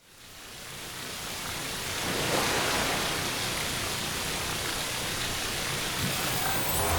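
A steady rushing hiss, even across high and low pitches, fading in over the first two seconds and then holding level.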